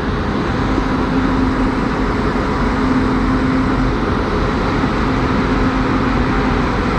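Single railway locomotive running as it comes up for an engine change: a steady hum over a constant rumbling noise.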